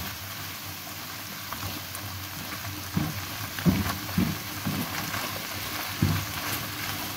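Minced chicken frying in oil in a non-stick pan with a steady sizzle, stirred with a spatula. From about three seconds in, the spatula knocks against the pan a handful of times.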